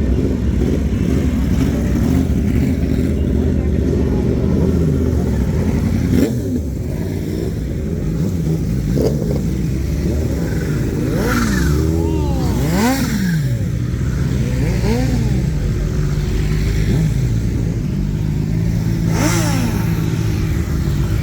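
Car engines running at a car meet, with a series of quick revs that rise and fall in pitch, a cluster of them about halfway through and another near the end.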